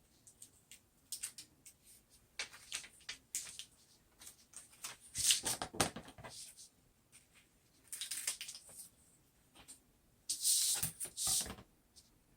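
Handling of vinyl decal sheets and contact paper: scattered light clicks and taps, with three louder bursts of rubbing and crinkling, the longest near the end.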